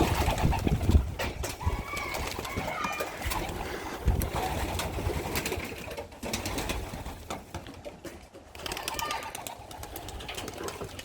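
Racing pigeons cooing, with scattered clicks and a few low bumps from movement and handling around the loft.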